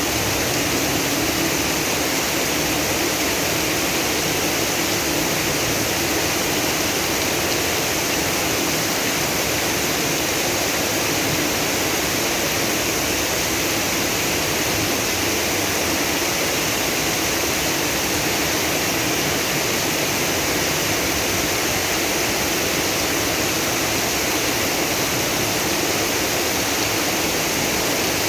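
Steady rush of heavy rain and floodwater running through a street, an even noise that does not change.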